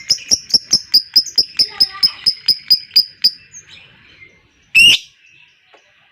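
A lovebird gives a 'ngekek': a long, rapid series of sharp, high chirps, about five or six a second, which ends a little after three seconds in. One loud harsh squawk follows near the end.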